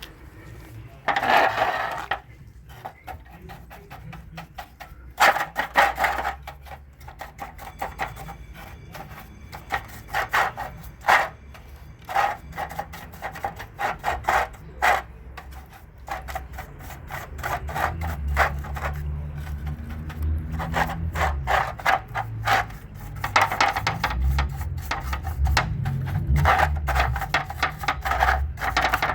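Alternator parts being handled and worked on a bench: irregular rubbing and scraping with clicks and knocks, heaviest in clusters, and a low rumble underneath in the second half.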